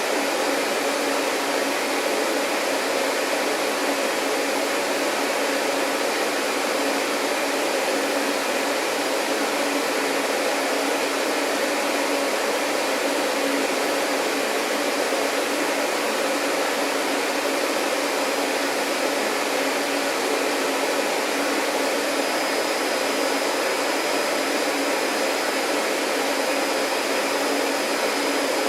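Vacuum cleaner motor running steadily, a continuous whooshing hum with no change in level; a thin high whine comes in about three-quarters of the way through.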